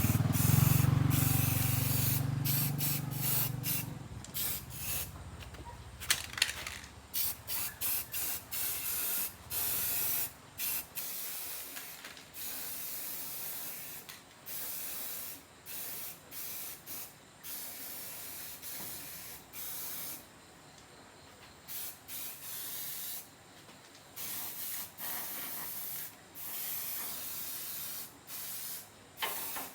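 Paint being sprayed in many short bursts of hiss, starting and stopping over and over. A low hum at the start fades out over the first few seconds.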